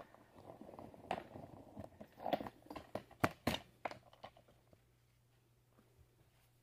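Bosch alternator being taken apart by hand: irregular metal clicks, knocks and scraping as parts are handled and pried apart, with a few sharper knocks about three seconds in, then it goes quiet.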